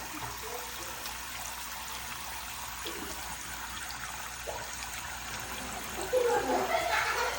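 Running water trickling steadily, with a louder, busier stretch of sound coming in about six seconds in.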